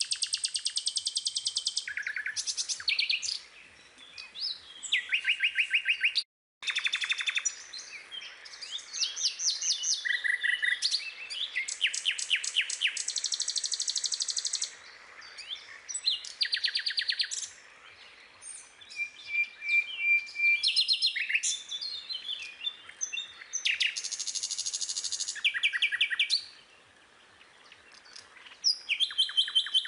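Small birds chirping and singing in fast trills and repeated chirps, several songs overlapping. The sound cuts out completely for a moment about six seconds in.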